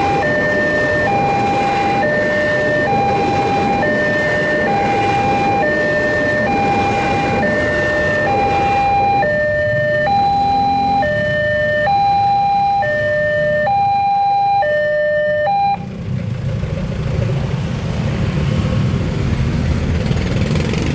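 Siemens railway level-crossing warning alarm, the crossing's replacement unit, sounding two alternating electronic tones in a steady hi-lo pattern, each tone lasting a little under a second. It cuts off suddenly about three quarters of the way through, and road vehicle engines running take over.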